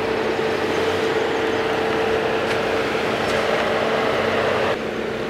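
Engine of a first-generation Volvo XC90 SUV running as the SUV rolls slowly forward, a steady hum with a constant tone. The broader noise drops a little near the end.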